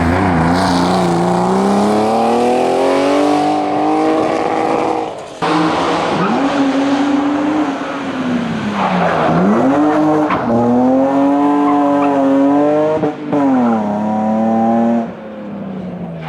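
Race car engines under hard acceleration. First a Porsche 911 RS's flat-six climbs in revs. After an abrupt cut, a BMW E36 accelerates, its pitch rising through each gear and dropping sharply at the shifts.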